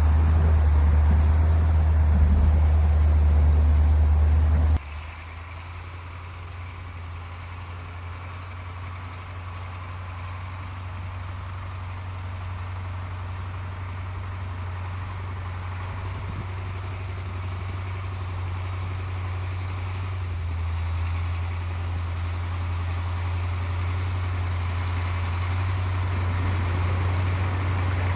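KAMAZ 4310 truck's V8 diesel engine running with a steady deep drone. About five seconds in, the sound cuts abruptly to a much quieter take, where the engine grows slowly louder.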